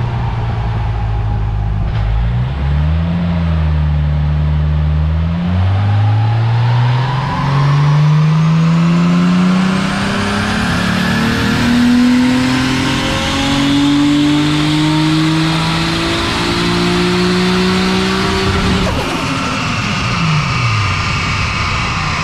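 Toyota Supra's rebuilt, turbocharged 2JZ-GTE straight-six making a full-throttle pull on a chassis dyno. The revs climb steadily for over ten seconds, then the throttle is lifted near the end and the revs fall away.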